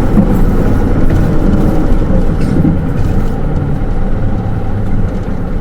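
Hino Rainbow II city bus with automatic transmission heard from inside the cabin: the diesel engine running with a steady low hum and road noise, easing slightly in level over the last couple of seconds.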